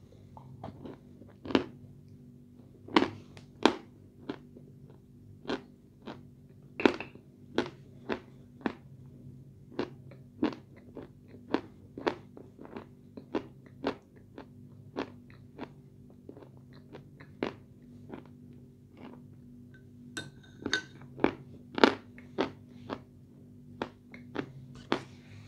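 Close-miked crunching and chewing of dry lumps of white edible clay (Chuy clay): sharp crunches about once or twice a second, a few much louder than the rest.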